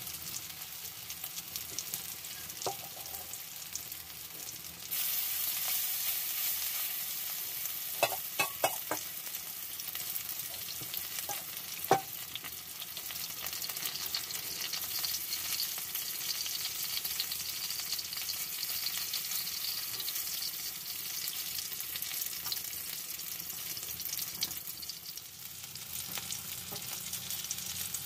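Oil sizzling steadily as tortang talong (egg-dipped eggplant patties) shallow-fry in a pan; the sizzle gets louder about five seconds in. A wooden spatula knocks against the pan a few times about a third of the way through, the last knock the loudest.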